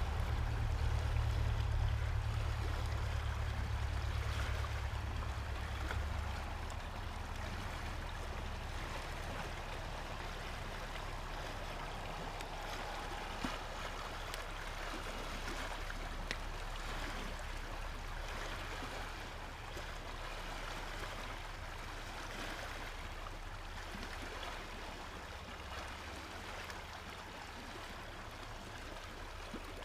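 Steady water noise, with a low rumble that is strong for the first six seconds and then eases off.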